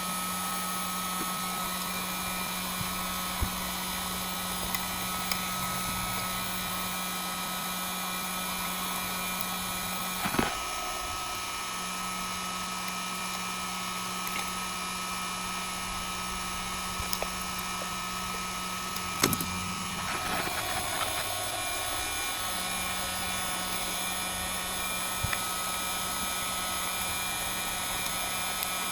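Heat gun blowing steadily, softening the adhesive under the back glass of a Samsung Galaxy S9 Plus. A few light clicks and two brief knocks from the prying tools come through over it.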